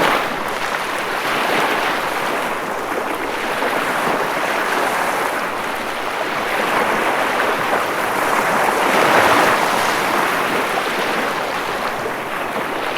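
Ocean waves washing onto a shore, a continuous rushing hiss that swells and recedes slowly, with the biggest surge about nine seconds in.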